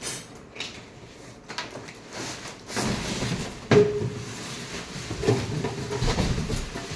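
Knocks, clicks and rattles of things being handled and moved, with one sharp knock about four seconds in.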